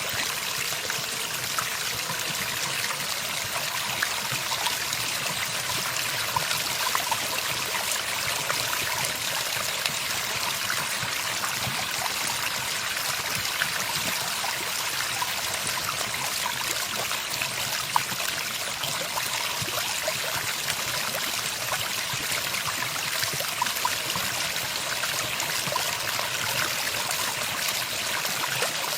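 Running water trickling and splashing steadily, like a small stream, with no birdsong in this stretch.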